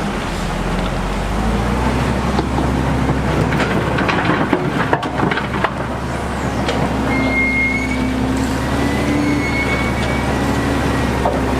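Heavy construction machinery's diesel engine running steadily, with a few knocks around the middle and two brief high metallic squeals near the end.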